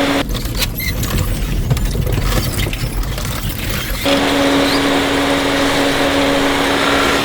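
BMW 530d being driven into thorny babool (acacia) bushes for a scratch test of its paint. A steady hum breaks off after a moment into about four seconds of low rumbling with crackling and scraping, then comes back.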